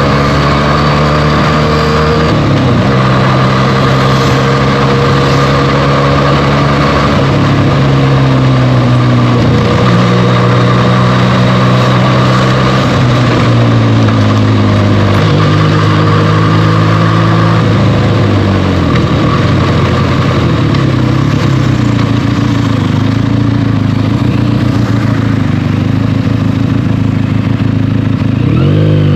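Benelli TNT 300's parallel-twin engine on its stock exhaust, heard from the rider's seat while riding. Its pitch holds, steps and dips with throttle and gear changes, with a dip past the middle and a quick rev up near the end, over a steady rush of wind and road noise.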